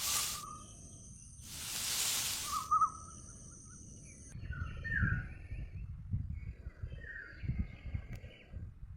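Outdoor ambience with short bird chirps several times. Two swells of rushing noise come in the first three seconds, and a faint high steady whine stops about four seconds in.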